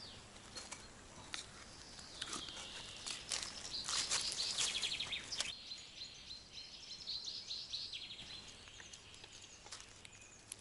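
Songbirds singing in a spring woodland: a cluster of high calls loudest about four to five seconds in, then a quick run of repeated notes later on.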